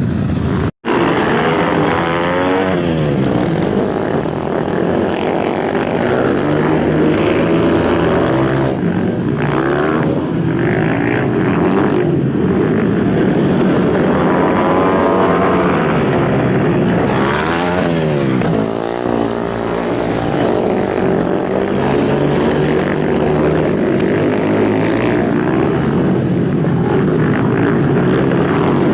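Racing superbike engines running hard at high revs, several at once. Bikes pass by with a sweep in pitch a few seconds in and again past the middle. The sound cuts out for a split second near the start.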